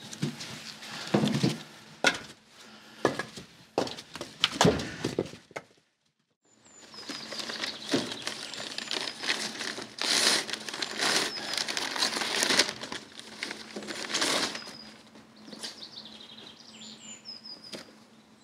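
Scattered knocks and clicks of things being handled, then, after a short break, steady rustling and crinkling with small birds chirping repeatedly.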